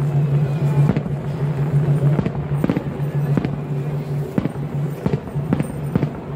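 Aerial firework shells bursting overhead, a run of sharp bangs at irregular intervals, over a steady low drone.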